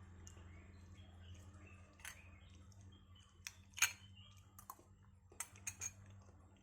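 Scattered small clicks and taps, the loudest a little under four seconds in and a quick run of them near the end, over a low steady hum.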